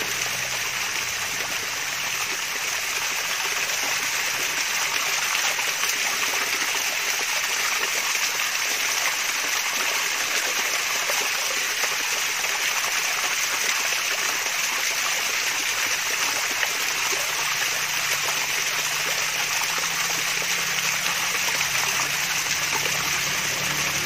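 Mini waterfall's water pouring and trickling steadily.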